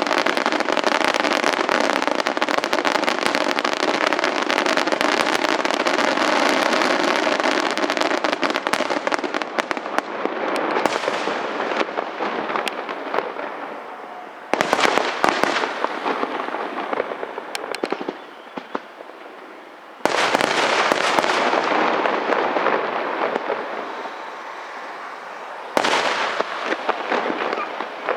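Aerial fireworks display: a dense, continuous barrage of bursts and crackling for about the first ten seconds, thinning out, then three fresh volleys of bursts about 15, 20 and 26 seconds in, each fading away.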